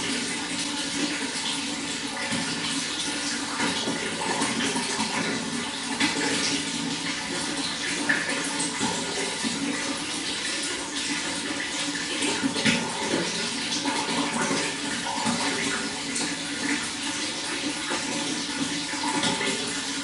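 Running water flowing and splashing steadily, with many small spatters and gurgles.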